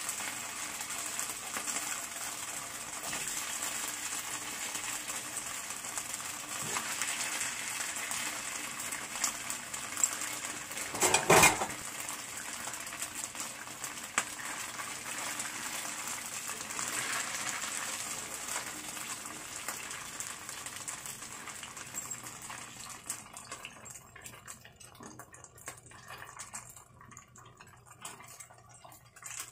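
Slices of steamed turnip cake frying in hot oil: a steady sizzle, with one short, loud clatter of a utensil against the pan about eleven seconds in. The sizzle thins and drops away near the end.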